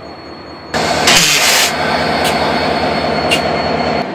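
Coradia passenger train standing at the platform with its engine running in a steady hum, which starts abruptly under a second in. A loud hiss lasts most of a second just after the hum starts, and two short hisses come later.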